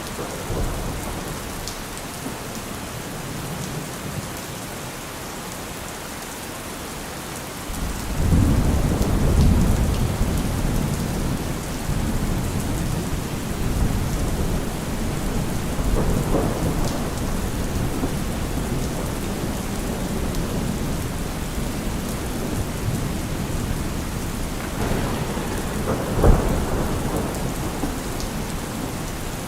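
Heavy rain falling steadily. About eight seconds in, a deep low rumble comes in under the rain and swells a few more times.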